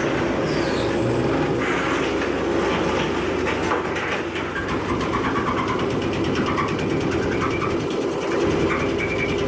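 Mobile scrap car baler running: a steady, loud drone of engine and hydraulics, with a fast, even ticking from about halfway and high squealing tones near the end.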